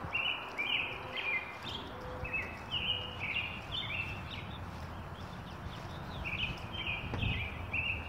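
A songbird singing a run of quick, high chirping notes that pauses around the middle and then starts again, over a steady low background rumble.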